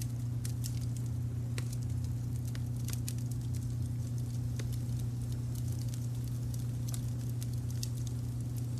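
Wood fire crackling, with frequent irregular sharp pops and snaps, over a steady low rumble of added brown noise.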